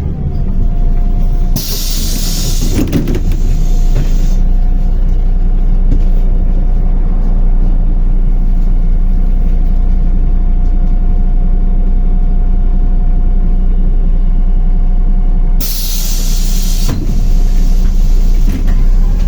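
MAZ-105 city bus with its engine running steadily, and two loud bursts of compressed-air hiss from its pneumatic system, a longer one a couple of seconds in and a shorter one near the end.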